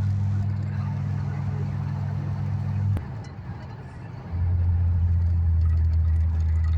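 Car road and engine noise heard from inside the cabin while driving: a steady low drone. About three seconds in there is a click and the drone drops away for about a second, then comes back a little lower in pitch.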